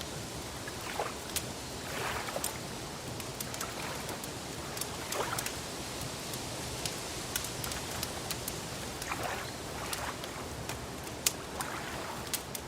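Lake water gently lapping and gurgling over a steady hiss, with soft swells every second or two and scattered sharp crackles throughout.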